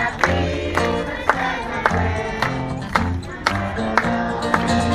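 Live country band music: an upbeat song with a steady beat of about two sharp accents a second over bass notes.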